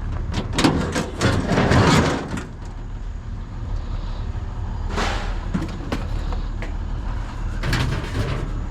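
Truck engine idling with a steady low hum, over a loud clatter of knocks and rattles in the first two seconds and single knocks about five and eight seconds in.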